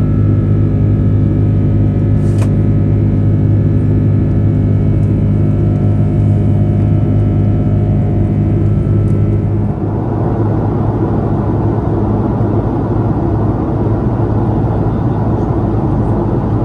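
Airbus A330 cabin noise from its jet engines: a steady hum with several fixed tones. About two-thirds of the way through it changes to a broader, even rushing sound.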